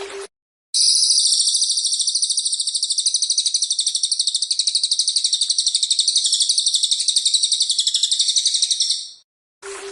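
High, rapidly pulsing buzzing trill of a singing insect, starting just under a second in and held steady before fading out near the end.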